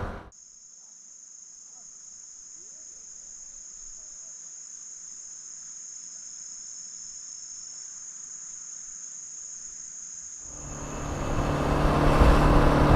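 Steady high-pitched chirring of crickets. About ten seconds in, the engine and road noise of a Suzuki Address 125 scooter fades back in and becomes the loudest sound.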